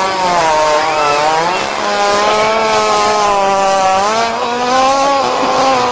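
Hippopotamus farting as it drops dung: a long, loud, buzzy blast whose pitch wavers, broken by short pauses about two and four seconds in.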